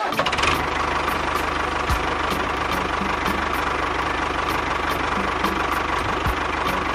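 Small motor of a miniature DIY construction machine running steadily, with a faint whine and a light, regular ticking.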